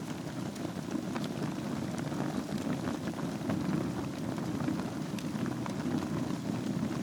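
Wood fire burning in a fireplace over a bed of embers: a steady low rumble of flame with frequent small crackles and pops.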